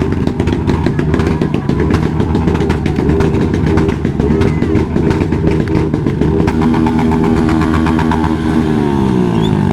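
Motorcycle engines running and revving among a crowd of bikes; near the end one engine's pitch falls as it eases off or passes by.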